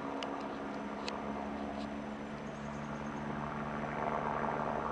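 Steady low mechanical hum, like an engine running, over a constant outdoor background noise, with a few faint ticks near the start.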